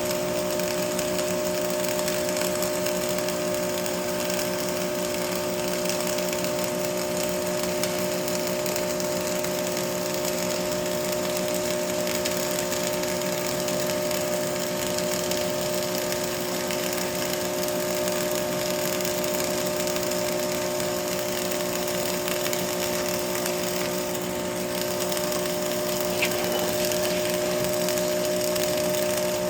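Arc welding: the welding arc crackling and sizzling without a break, over a steady electrical hum.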